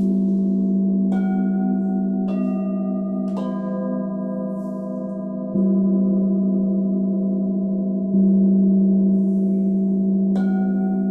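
Gongs and singing bowls struck one after another, their clear tones ringing on and overlapping over a deep steady hum. Three higher strokes come in the first few seconds, the deep tone is struck again twice in the middle, and one more stroke comes near the end.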